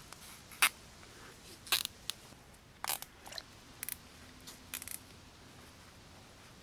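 Several sharp, irregular clicks and snaps, about six spread over the first five seconds, from hands working with small hard parts.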